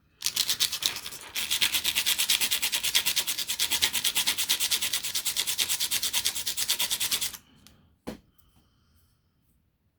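Sanding a 3D-printed plastic part: rapid, even back-and-forth scraping strokes that pause briefly about a second in and stop a little past halfway. A single short knock follows shortly after.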